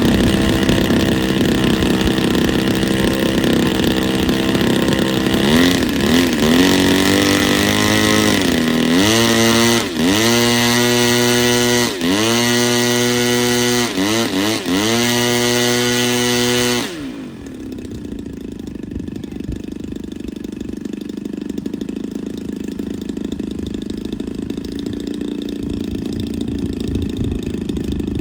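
Gas-powered two-stroke engine of an RC plane, the same kind of motor as a weed eater, running at high revs with the throttle blipped. Its pitch drops and climbs back several times. About 17 seconds in the sound drops suddenly to a quieter, lower steady drone.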